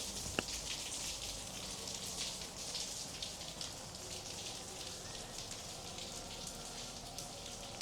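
Steady rain falling, with a dense patter of drops, and a single sharp click about half a second in.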